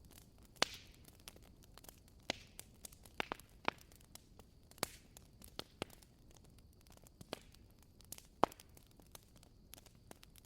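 Burning firewood crackling: a dozen or so sharp pops at uneven intervals over a faint hiss, with the loudest pops about half a second in and a little past eight seconds in.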